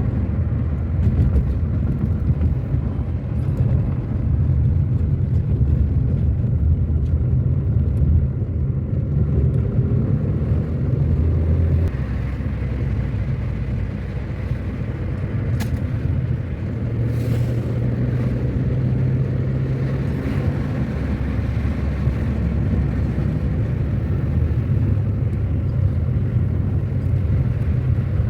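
Car driving on a road: a steady low rumble of engine and tyre noise, easing slightly about twelve seconds in.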